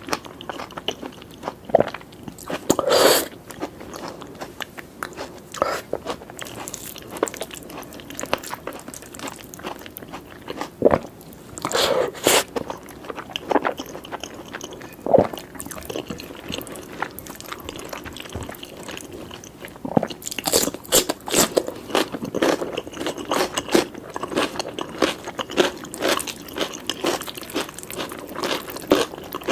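Close-miked eating sounds: chewing and crunching through a meal of curry, rice and grilled peppers, with wet mouth clicks. The bites come irregularly, with a few louder crunches and a dense run of them in the last third.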